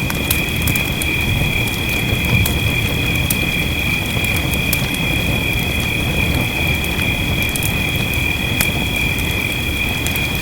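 Wood fire crackling with frequent sharp snaps over a steady low rushing of fire and rain. A steady high-pitched whine of two tones runs underneath.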